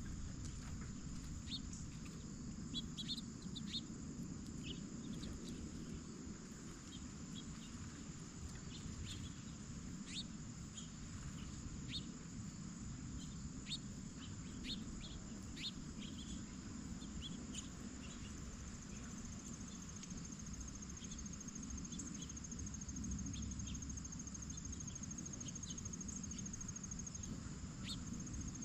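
Crickets or other insects chirping steadily in a high band, with a fast pulsed trill joining about two-thirds of the way in. Short bird chirps come and go throughout over a low background rumble.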